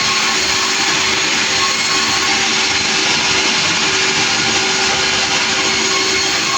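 Sawmill machinery running steadily and loudly, a dense mechanical noise with a few steady tones in it.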